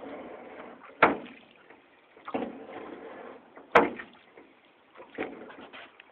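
Paddles working a small boat through floodwater: a sharp knock and splash about every second and a half, each stroke trailing off in a short wash of water.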